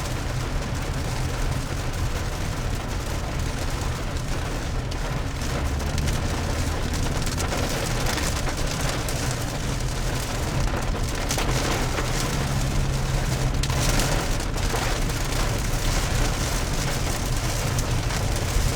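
Steady noise of a vehicle driving in the rain: rain on the vehicle and tyres on the wet road, over a low engine and road hum.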